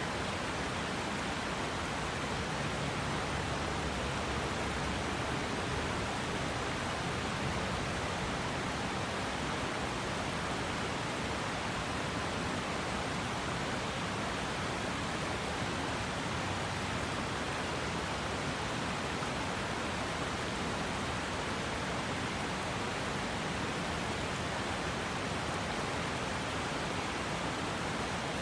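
River water rushing and splashing over rocks, a steady even wash of sound.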